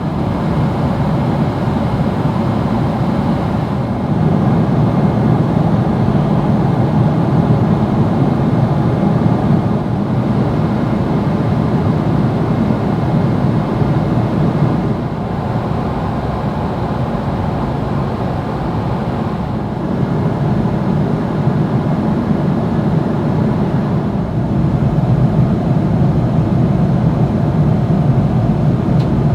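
Steady cabin noise of a Boeing 777-300ER airliner in flight: a deep, even rush of airflow and engine noise, with no distinct tones, its level shifting slightly a few times.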